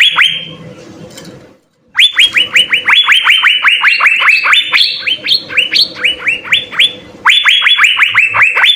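Asian fairy-bluebird (cucak biru) singing: fast runs of sharp whistled notes, each dropping steeply in pitch, several a second, broken by a brief pause near the start and another about seven seconds in.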